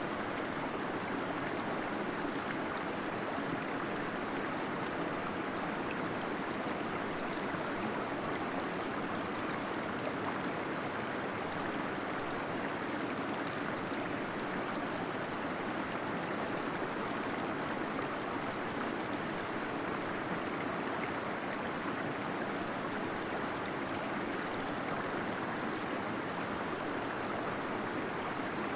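Small waterfall in a cave flowing steadily, a continuous rush of gurgling water with no breaks or changes.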